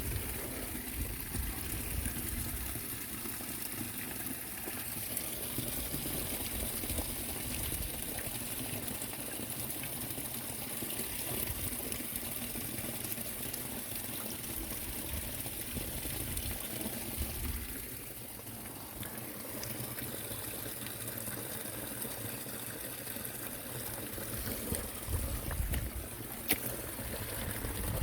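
Stream water running steadily over a weir.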